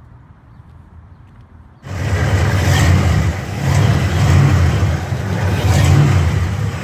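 A car engine running loud and revving, cutting in suddenly about two seconds in after a quieter stretch, its level rising and falling with the revs.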